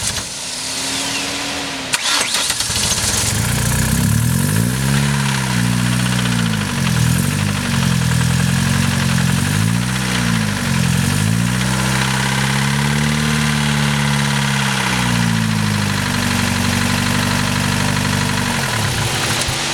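Used replacement engine in a Ford ZX2 starting after a moment, then revved up and down several times before holding a steadier run; its pitch drops sharply near the end. The owner calls the engine blown: its oil-pressure light comes on once warm.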